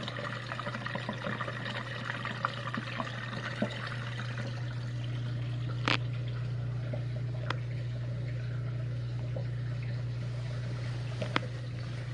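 Whirlpool dishwasher draining: the drain pump runs with a steady low hum as water pours and gurgles out, the water noise settling after the first few seconds. A few sharp clicks sound about six seconds in and later.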